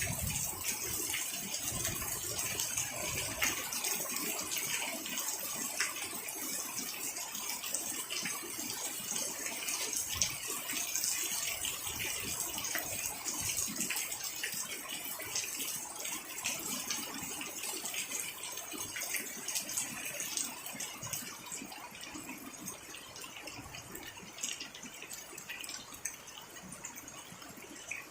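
Steady rain falling, a dense hiss of many drops with individual hits audible, growing somewhat quieter in the last several seconds.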